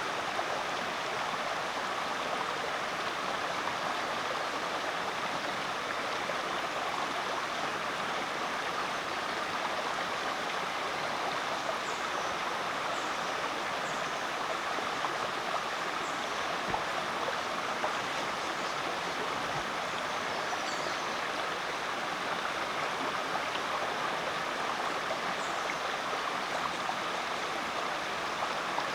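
Rainforest creek water running steadily, an even rushing noise, with a few faint, brief high chirps over it about halfway through.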